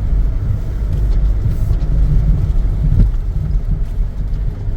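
Four-wheel-drive Mitsubishi Pajero driving on a dirt forest track: a steady low rumble of engine and tyres.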